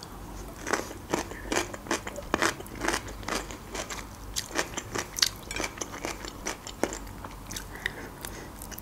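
A person chewing food with the mouth close to the microphone, with a run of small crisp crunches, several a second, that thin out near the end.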